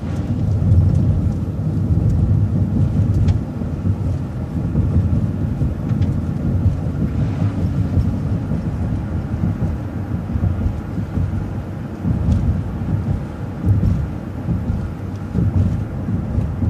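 City transit bus driving along, heard from inside the cabin: a steady low rumble of engine and road noise that swells and eases a little, with a few faint clicks.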